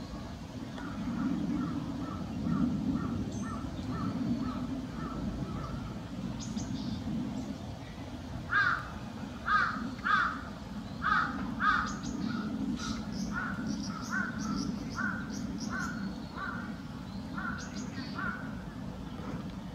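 A bird calling in a long series of short, evenly spaced calls, about two a second. The calls grow louder in the middle and go on to near the end, over a steady low rumble.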